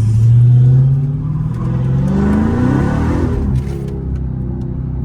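Dodge Charger Hellcat's supercharged 6.2-litre Hemi V8 with its mid mufflers deleted, running loud on the road. The exhaust note climbs in pitch from about two seconds in, then drops off sharply a second and a half later, as the throttle comes off or the gear changes.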